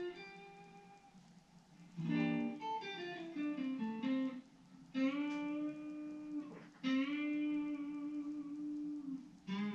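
Newly assembled Effonia Stellar guitar played on its first sound check: a note fading out, a quick descending run of picked notes about two seconds in, then two long sustained notes held for a couple of seconds each, and a fresh note struck near the end.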